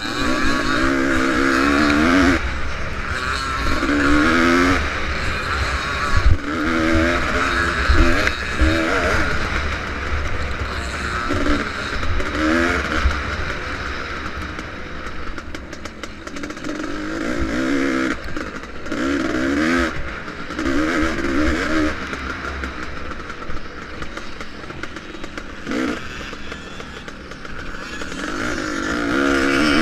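Vintage motocross motorcycle engine revving hard, its pitch climbing again and again and dropping back as the bike accelerates, shifts and backs off around the track, over a steady low rumble.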